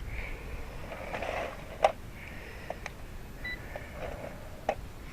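Wind rumbling on the microphone, with a few sharp clicks, the loudest about two seconds in, and a short high beep a little past the middle.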